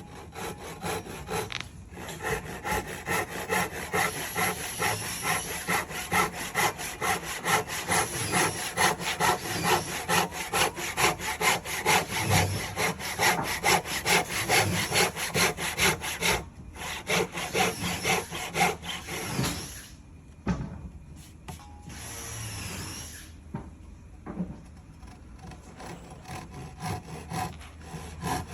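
Hand saw cutting through timber in steady back-and-forth strokes, about two to three a second, while a joint is being cut. The strokes break off about two-thirds of the way through, then resume more lightly near the end.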